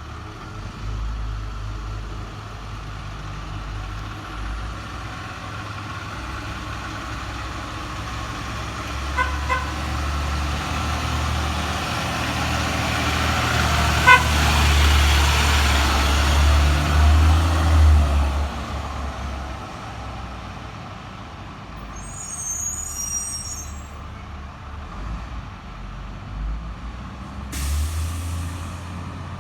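2003 Blue Bird International 3800 school bus driving past, its diesel engine rumbling louder as it approaches, loudest about halfway through, then fading as it goes away. Short pitched beeps sound twice quickly and then once more as it nears, and a short hiss comes near the end.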